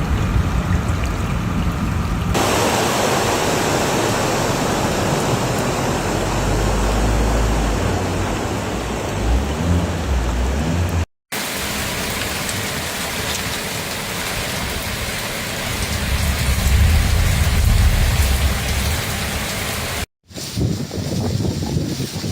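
Heavy rain pouring in a dense, steady hiss across several spliced storm clips. Low rumbles swell twice, and the sound cuts off abruptly twice at clip changes, about 11 and 20 seconds in.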